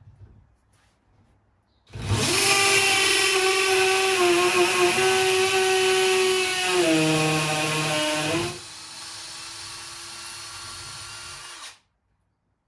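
Power drill boring a hole, starting about two seconds in and running loud and steady, its pitch dropping as it comes under load. It then runs lighter and quieter for about three seconds before stopping abruptly.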